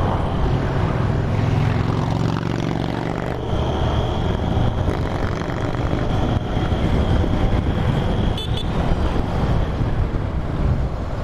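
Motorcycle running at road speed with wind rushing over the microphone; a clear engine note stands out for a couple of seconds early in the ride-along.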